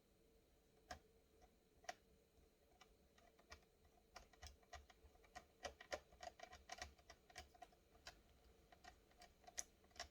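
Faint, irregular small clicks and ticks of tiny laptop screws and plastic parts being handled, coming thicker after about four seconds.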